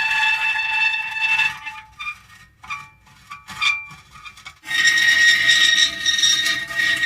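Metal creaking: long, high-pitched squealing groans that die down about a second and a half in to a few short squeaks, then swell back loudly for the last couple of seconds.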